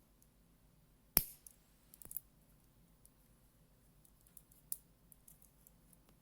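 One sharp click about a second in, then a few fainter clicks and taps: a dive watch's bracelet and clasp being handled.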